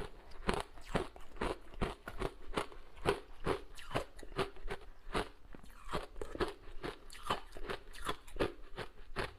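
Ice being bitten and chewed, a steady run of sharp crunches at about two or three a second.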